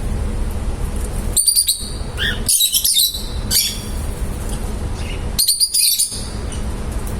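Pet love birds (small parrots) chirping in four short, high-pitched bursts, over a steady low rumble.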